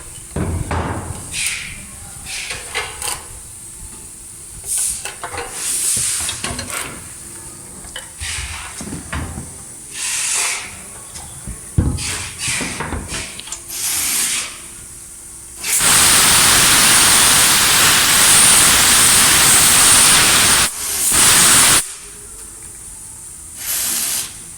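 Short, irregular bursts of hissing air, then one loud steady hiss lasting about five seconds, a brief break, and another hiss of about a second.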